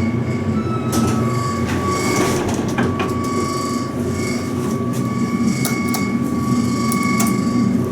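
Steady machinery noise in a metro station: a low rumble under a steady high whine, with a few sharp clicks.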